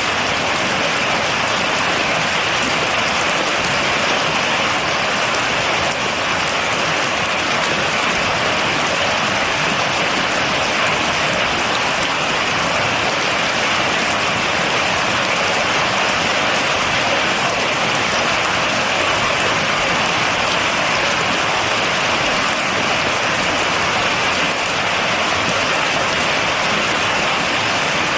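Steady rain falling without thunder, an even hiss of many drops with no let-up.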